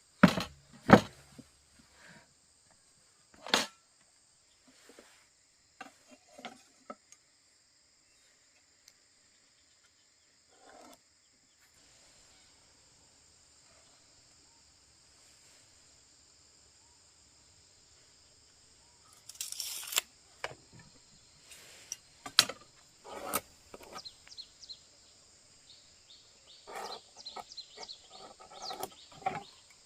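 A steady high insect chorus of crickets or cicadas, broken by scattered sharp knocks and clatters. A few knocks come in the first few seconds, a louder run comes about two-thirds of the way through, and a cluster of small clicks and clatters comes near the end.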